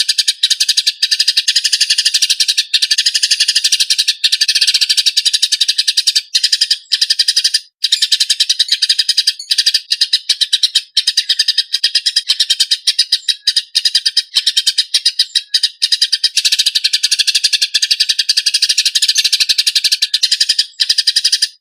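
Eurasian tree sparrow giving its fast, dense, harsh fighting chatter, an unbroken stream of rapid chirps. There is a brief break about eight seconds in, and the chatter cuts off suddenly at the end.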